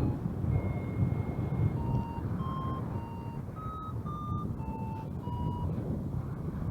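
Free-flight variometer beeping: a string of short tones that step up and down in pitch around 1 kHz, with one longer, higher tone near the start. This is the vario's climb signal. Steady wind noise buffets the microphone underneath.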